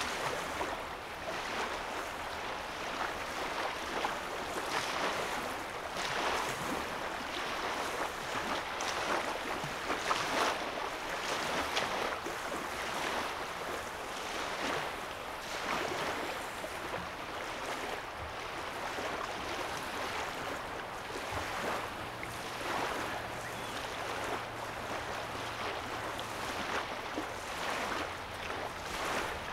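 Small lake waves lapping on a sandy shoreline, a continuous wash of water that swells and eases every second or two.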